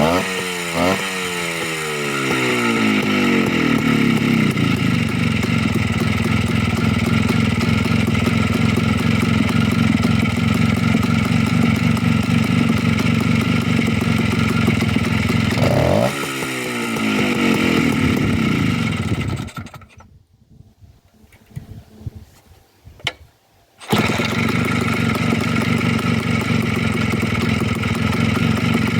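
Freshly rebuilt Minsk 125 single-cylinder two-stroke motorcycle engine. It is revved and falls back to a steady idle, and is blipped again about halfway. About two-thirds of the way in it stops, leaving a few seconds of near quiet with a few small knocks, then starts again suddenly and idles.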